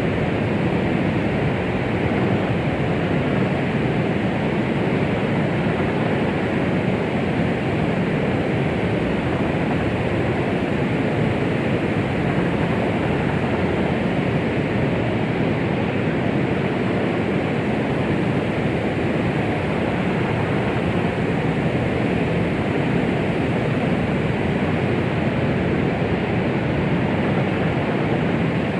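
Steady, unchanging rushing noise, strongest in the low and middle range and dull in the highs, with no beat or rhythm: a white-noise track made to imitate the sound of the womb.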